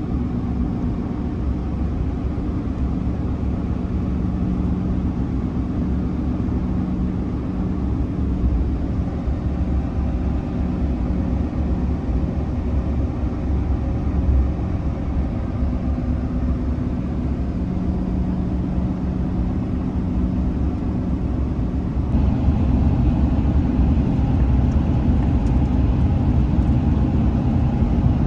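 Motor vehicle engine running with a steady low rumble and a held hum; it grows louder and fuller about 22 seconds in.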